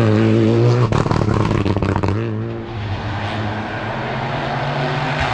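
Rally car engine running hard close by, with a few sharp cracks about a second in. After about two seconds the level drops and a fainter engine sound carries on.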